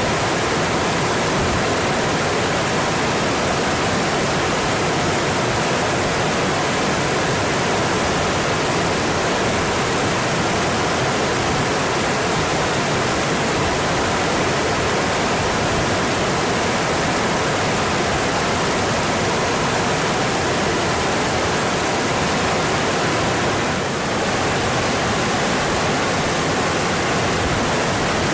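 Mountain stream flowing, a steady dense rush of water.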